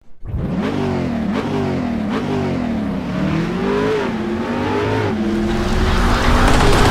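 Car engine revved in repeated blips, its pitch rising and falling about once a second, then holding steadier and slightly louder near the end.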